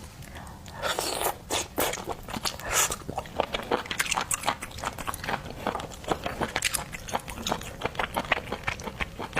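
Close-miked mouth sounds of eating cooked shellfish: wet chewing and smacking made of many quick clicks, with a few louder bites in the first few seconds.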